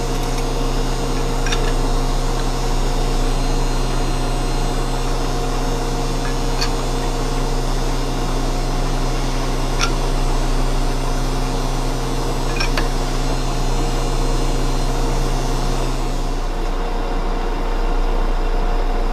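Metal lathe running steadily with the steel shaft turning in it, a hum with several steady tones over a hiss, and a few faint ticks. A little before the end the higher hum and the hiss drop away, leaving a low hum, as the lathe is shut off.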